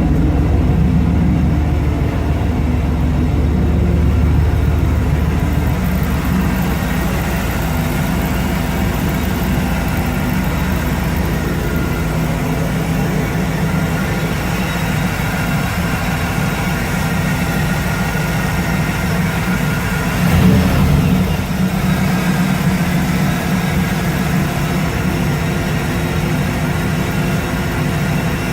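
A 1994 Camaro Z28's 5.7-litre LT1 V8 running through a Borla exhaust, idling steadily, with a brief rise in engine sound about twenty seconds in.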